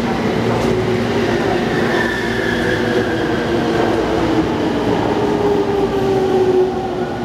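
Electric commuter train running at a station, a steady rumble with a whine in it that falls slowly in pitch over several seconds as the train slows.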